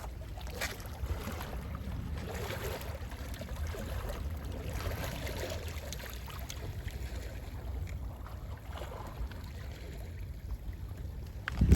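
Calm sea waves lapping gently, with a steady low rumble of sea wind under small splashes. A brief, louder low thump comes near the end.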